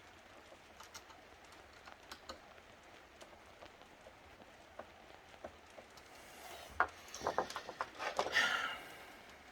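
Small clicks and light rattles of laptop plastic parts being handled and pried apart. About seven seconds in comes a louder burst of clicking and scraping.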